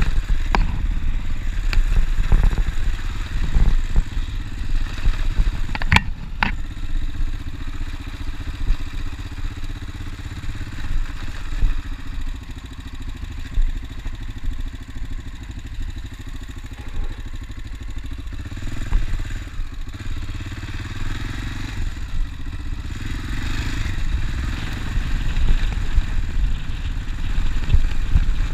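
Honda Dominator NX650's single-cylinder four-stroke engine running while the bike is ridden off-road, with a deep low rumble that rises and falls with the throttle. Several sharp knocks and clatters come in the first seven seconds, the loudest about six seconds in; after that the sound is steadier.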